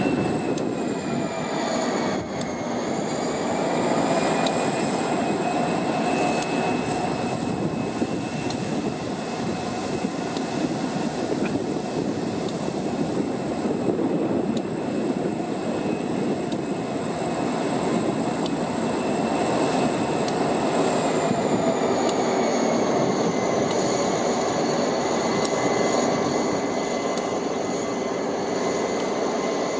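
EMD diesel locomotives with turbocharged 645 engines working under power in a rail yard. Their continuous running carries several high, steady whining tones. The tones drop in pitch about two seconds in and again a little after twenty seconds in, as the throttle changes.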